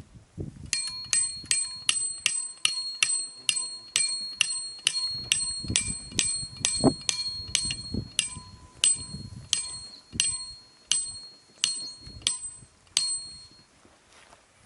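A metal object struck over and over, about two blows a second, each blow ringing with the same bell-like tone; the striking stops near the end.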